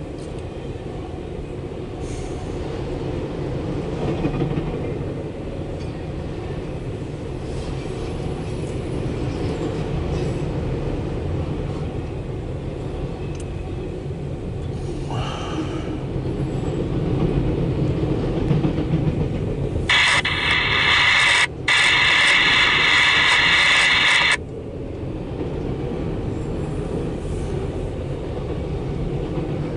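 CSX Q137 intermodal and autorack freight train passing, its wheels on the rails making a steady low rumble. About two-thirds of the way in, a loud high-pitched sound cuts in for about four seconds, with a brief break partway through.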